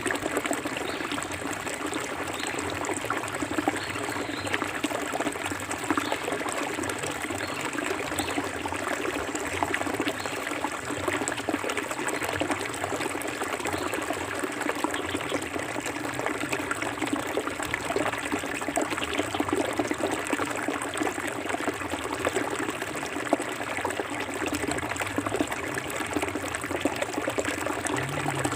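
Forest river flowing over stones, a steady babble and trickle of running water.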